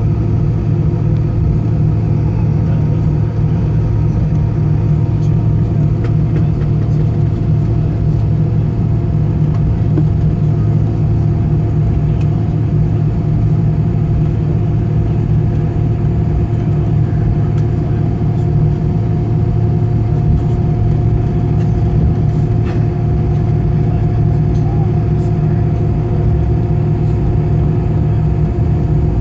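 Steady cabin noise inside an Airbus A320-214 on the ground before takeoff: a low, even rumble from its CFM56 engines at low thrust and the cabin air system, with a few steady hums above it.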